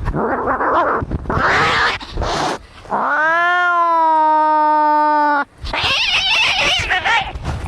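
Cats fighting: harsh, rasping screeches, then one long yowl of about two and a half seconds that rises and then holds steady, then more rasping screeches.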